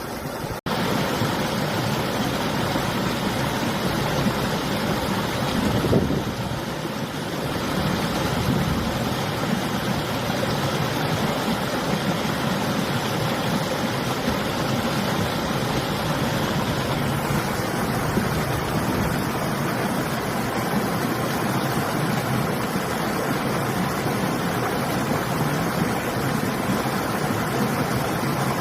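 Steady rushing of a flowing river mixed with winter wind buffeting the microphone. There is a momentary dropout just after the start.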